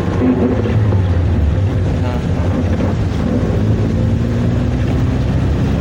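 Manual car's engine running as the car drives, heard from inside the cabin as a steady low drone.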